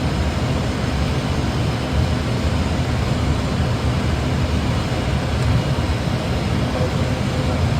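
Steady cockpit noise of an Airbus A320 on final approach: a constant rush of airflow and engine noise with a low hum underneath.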